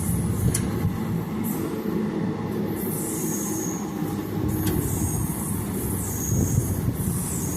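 Passenger train coach rolling slowly on the track, heard on board: a steady low rumble with high squeals from the wheels that come back every second or so, and a couple of sharp clicks.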